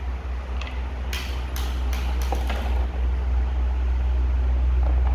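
Electric fan running with a steady low rumble, its motor turning freely again after its shaft bearings were sprayed with lubricant. About a second in comes a quick run of sharp plastic clicks and knocks as the fan's cover is handled and fitted back on.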